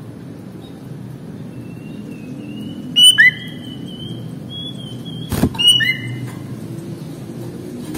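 Sooty-headed bulbul (kutilang) calling: two short loud outbursts, about three seconds in and again about five and a half seconds in, each a sharp high note dropping into a lower whistled note, with a thin level whistle between them. A single sharp knock comes just before the second outburst.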